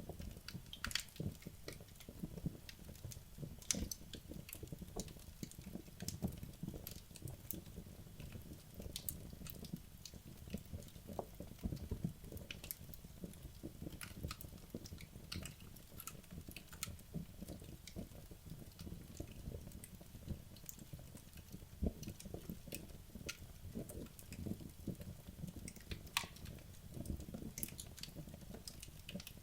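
Wood logs burning in a fireplace: a soft low rumble of flames with frequent irregular crackles and pops.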